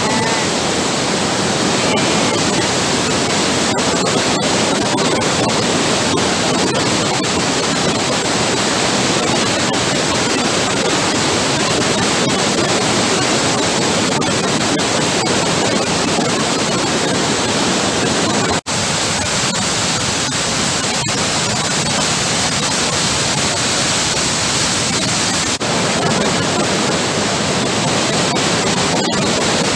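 Waterfall rushing: a loud, steady, even noise of falling water, broken once by a very short dropout about two-thirds through.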